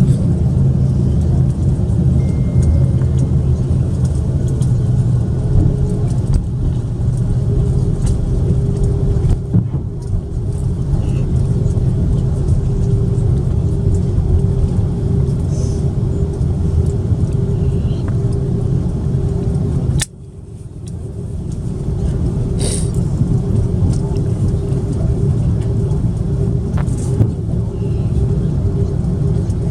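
Steady low rumble and hum inside the cabin of an Airbus A330-300 taxiing after landing, with a steady tone joining about a quarter of the way in. The sound drops away abruptly about twenty seconds in and builds back up within a couple of seconds.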